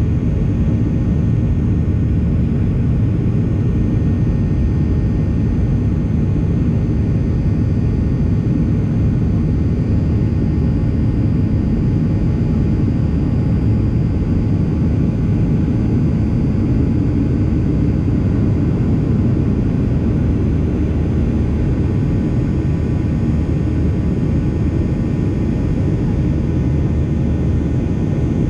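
Steady cabin noise of a Boeing 737 in flight: the low rumble of airflow and its two CFM56-7B turbofan engines, with faint steady whines above it.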